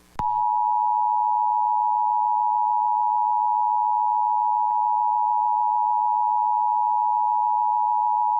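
Emergency Alert System two-tone attention signal: a loud, steady dual tone that starts just after the beginning and cuts off sharply near the end, about eight seconds long. It signals that an emergency alert, here a severe thunderstorm warning, is about to be read.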